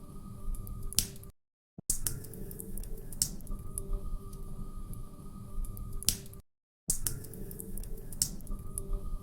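Wood fire crackling in a fireplace: irregular sharp pops and snaps over a low rumble, broken by two brief dropouts to silence about a second and six seconds in.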